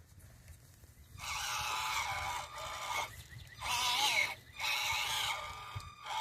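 Small 1/24-scale RC crawler's electric motor and gears whining in three bursts of throttle, the pitch wavering as the speed changes.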